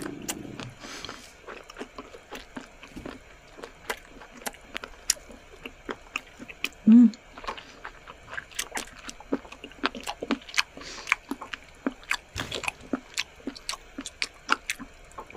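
Close-miked chewing of raw squid in soy sauce: many small sharp mouth clicks and smacks, with a brief loud hummed 'mm' about seven seconds in.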